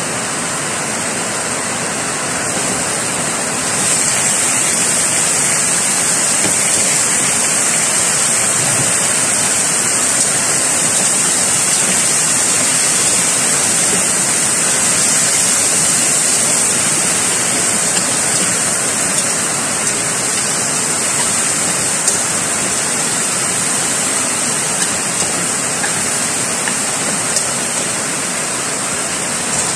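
Steady rushing hiss of chicken pieces frying in hot oil in a steel wok, mixed with heavy rain. The hiss grows louder about four seconds in, and a few light clicks of the spatula on the wok come near the end.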